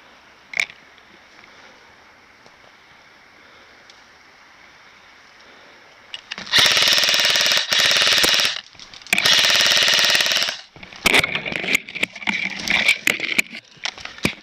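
Airsoft electric gun firing on full auto: two long, loud bursts of about two seconds each, starting about six seconds in, followed by scattered sharp clicks.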